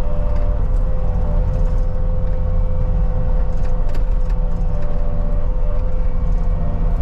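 CAT 279D compact track loader's diesel engine running steadily while pushing dirt, with a steady whine over the engine rumble.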